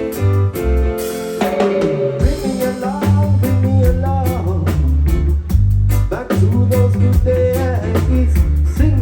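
Live band playing an instrumental passage with a drum kit keeping a steady beat, bass, guitar and keyboard, and a melody line that bends in pitch over it.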